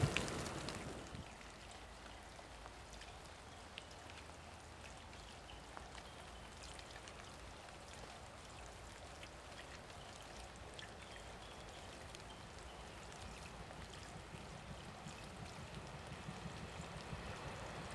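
Rain falling, an even hiss with scattered ticks of drops, after a louder rush dies away in the first second. In the last few seconds the low rumble of an approaching 475-series electric train slowly grows louder.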